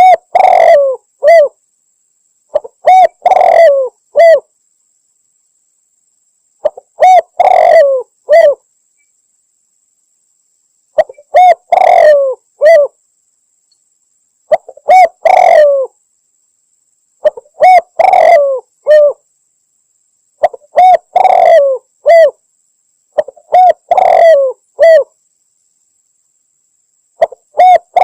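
Spotted dove cooing, said to be a female calling to a male: the same phrase of three or four coo notes repeats about every three seconds. It is a loud, close-up lure recording.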